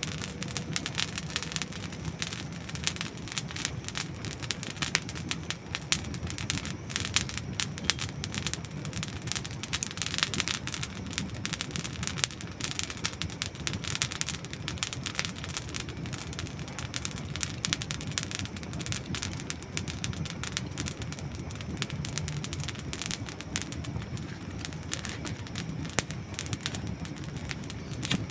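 Campfire of dry wood burning, with dense, irregular crackles and pops over a steady hiss of the flames.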